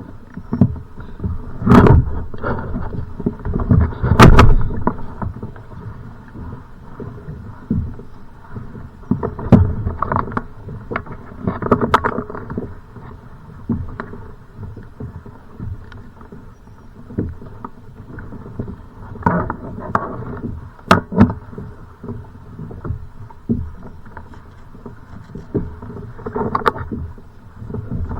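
Kayak on choppy, wind-blown water: an irregular, swelling rush of wind and waves, broken by sharp knocks and thumps against the boat, the loudest about two and four seconds in and again near twenty-one seconds.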